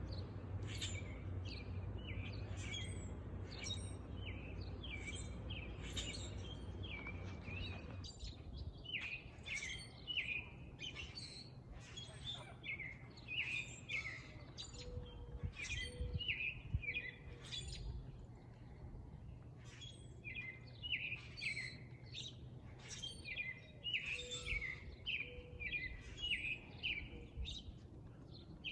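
Several male grackles calling, a dense run of short, shrill notes overlapping one another throughout. A low background rumble stops abruptly about eight seconds in.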